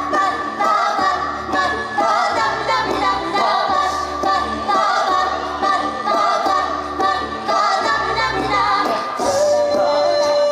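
A small choir singing in harmony with no other instruments showing, sustained upper voices over a low bass part that pulses about once a second.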